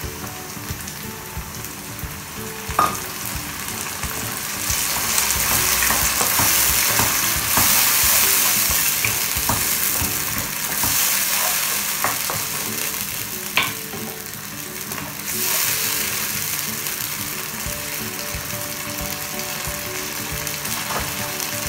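Grated tomato and chopped onion sizzling in hot oil in a wok, stirred with a wooden spoon that knocks against the pan now and then. The sizzle swells to a loud hiss from about five seconds in and eases back about fifteen seconds in.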